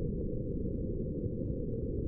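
Steady, deep rushing noise with no high end and no changes: the synthetic low hum of a spaceship-interior sleep ambience, a brown-noise-like rumble.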